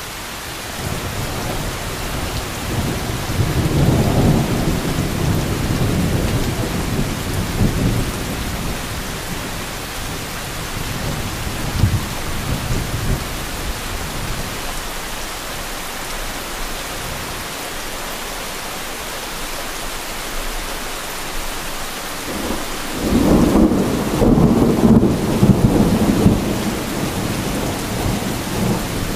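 Heavy rain falling steadily, with two long rolls of thunder. The first builds about a second in and dies away over roughly ten seconds. The second breaks in suddenly near the end and rumbles for a few seconds.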